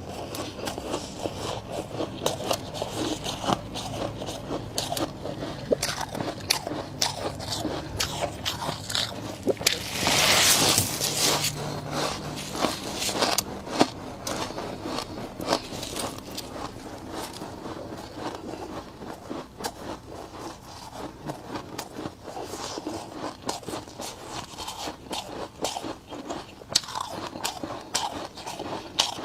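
Freezer frost being scraped and bitten: a dense run of crisp crunches and crackles, with a louder, longer noisy stretch about ten seconds in.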